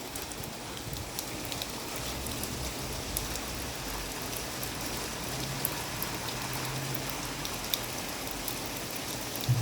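Heavy rain falling steadily, with scattered sharp ticks of drops striking near the microphone.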